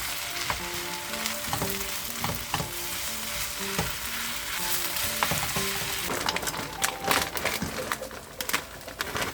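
Food sizzling in a frying pan, a steady hiss. In the second half a spatula taps and scrapes against the pan as the food is stirred, over soft background music.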